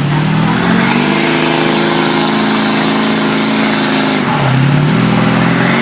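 Street pickup truck's engine running at high revs under heavy load, pulling a weighted sled down the track. The engine pitch climbs at first, holds high, drops about four seconds in and climbs again.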